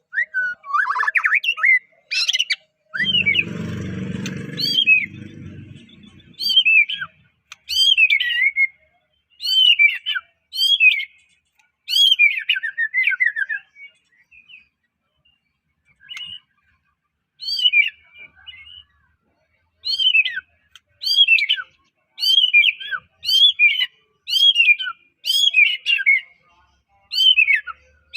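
White-rumped shama (murai batu, Medan type) singing: short, loud whistled phrases that sweep up and down, repeated every second or so, with a pause of a few seconds about halfway through. A low rumbling noise runs for about three seconds starting about three seconds in.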